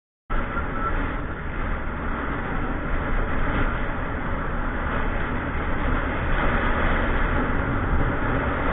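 Steady wind rush and road noise from a motorcycle ride, without a clear engine note, starting suddenly a moment in.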